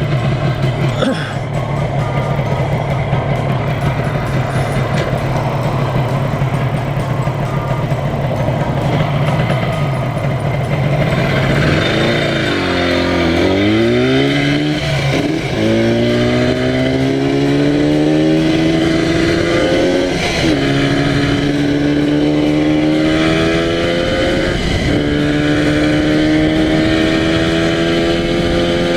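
Yamaha TZR250 1KT two-stroke parallel-twin engine on a motorcycle, running steadily under way, then the revs dip and pick up again about 12 seconds in. It then accelerates through the gears, the pitch rising in each gear and dropping at upshifts about 15, 20 and 25 seconds in.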